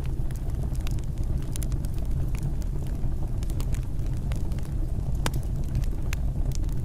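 Wood fire crackling and popping: irregular sharp snaps over a steady low rumble of burning, with one louder pop about five seconds in.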